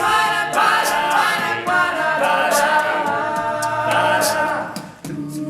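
All-male a cappella group singing wordless backing chords in several voice parts. The sound fades briefly near the end before the voices come back in.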